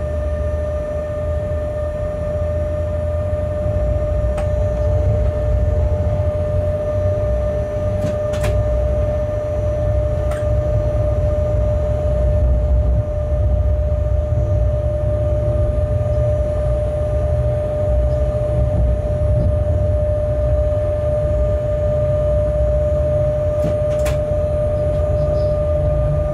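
Freight locomotive heard from inside its cab while rolling through a station yard. A low rumble of the locomotive and its wheels on the rails runs under a steady whine, growing louder over the first few seconds. A few sharp clicks come as the wheels cross points.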